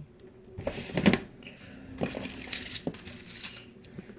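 Fidget toys being handled and moved about: a scatter of small plastic clicks and knocks with short bursts of rustling, the biggest about a second in.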